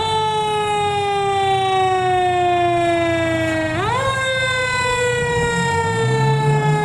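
Fire truck siren sounding, its pitch jumping up quickly twice and sliding slowly down after each jump. A truck engine rises in pitch near the end as the truck accelerates.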